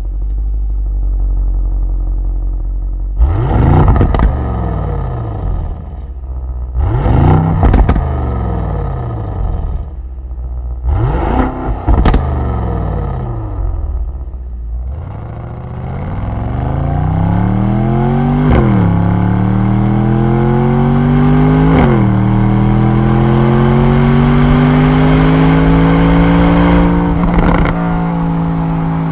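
Mercedes-AMG GLE 63 S twin-turbo V8 through an Akrapovic Evolution Line titanium exhaust: idling, then three quick throttle blips, then a long pull under acceleration with two upshifts, each a sudden drop in pitch before it climbs again, settling into a steady run.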